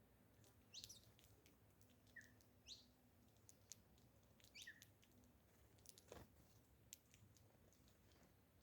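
Faint bird calls: a few short chirps, each sliding down in pitch, scattered through the first half, with light clicks in between.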